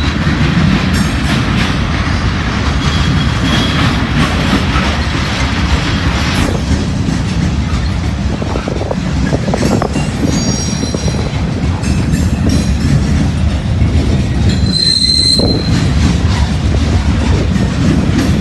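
Freight train cars rolling past close by: a steady rumble of steel wheels on rail, with brief high-pitched wheel squeals about ten seconds in and again near fifteen seconds.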